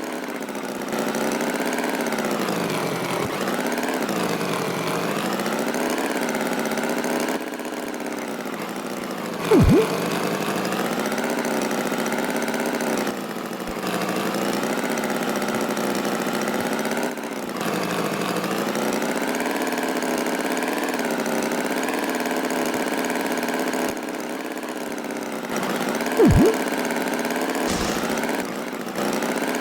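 Tractor engine running steadily, its pitch wavering slightly up and down, with a short sharp sound twice, about ten seconds in and again near the end.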